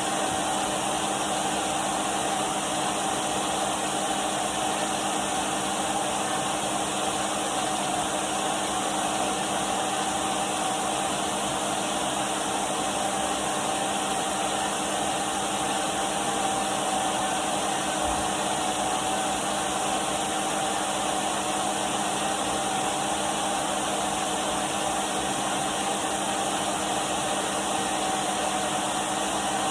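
Henry canister vacuum cleaner running steadily: a constant rush of air with an unchanging mid-pitched whine from the motor.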